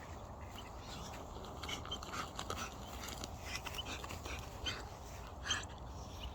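Dog whimpering in short, high squeaks while digging at a ground squirrel burrow, with scattered scratching and scuffing of dirt.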